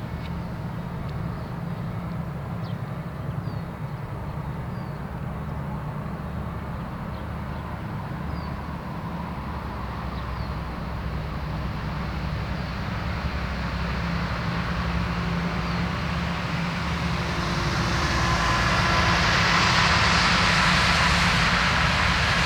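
2TE10U diesel locomotive running with the steady low drone of its 10D100 two-stroke opposed-piston diesel engines. It grows louder as the train approaches, and for the last few seconds it is joined by swelling wheel-and-rail noise from the freight train.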